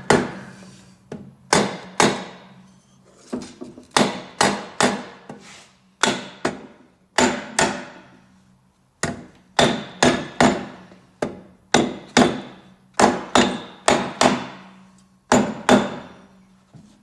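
Rubber mallet tapping the two halves of a VW air-cooled engine crankcase together: repeated sharp taps in short runs of two to four, with brief pauses between runs.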